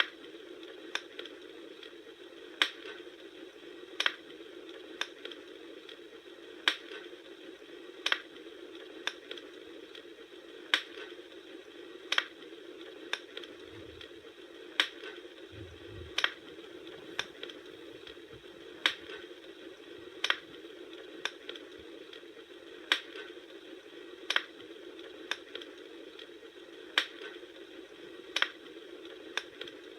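Wood fire crackling: sharp pops and snaps, irregular but about one a second, over a steady hiss.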